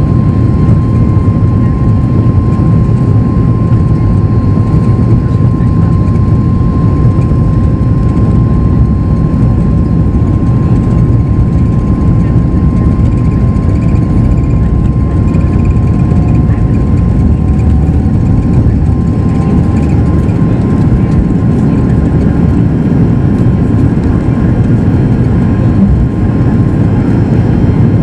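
Steady cabin noise aboard a Boeing 737 MAX 8 in flight: the loud, even roar of its CFM LEAP-1B turbofans and the airflow, with a steady whine running through it.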